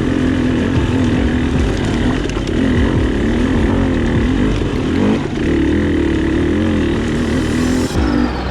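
Dirt bike engine being ridden, its pitch rising and falling constantly as the throttle opens and closes. The sound changes abruptly near the end.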